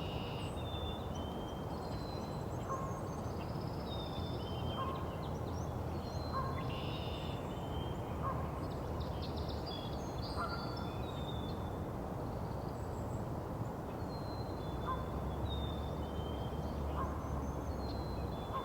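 Canada goose calling over and over with short honks, one every second or two, under many short high whistled notes from songbirds and a steady low background noise.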